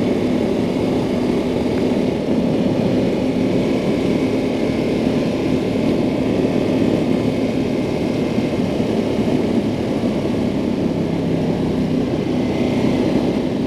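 Ducati Multistrada 1200 Enduro's L-twin engine running steadily at cruising speed, with wind noise rushing over the microphone.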